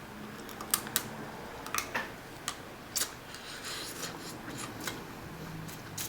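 Close-up eating sounds from a meal of Dungeness crab: a string of sharp, irregular clicks and cracks, several in the first three seconds and fewer after.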